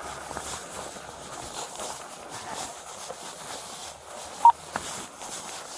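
Steady background hiss, with a single short electronic beep about four and a half seconds in.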